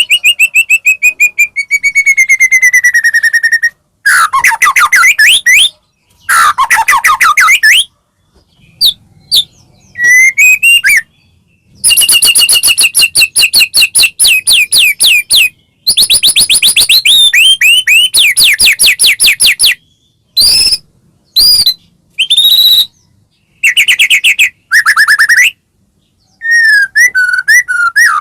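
White-rumped shama (murai batu) singing loudly in a string of separate phrases: clear whistles gliding downward, fast trills of rapidly repeated notes and chattering runs, with short pauses between them.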